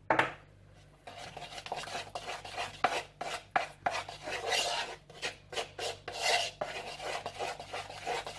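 A utensil stirring mug-cake batter in a bowl, scraping against the bowl in quick repeated strokes, a few per second. A sharp knock just after the start comes before the stirring.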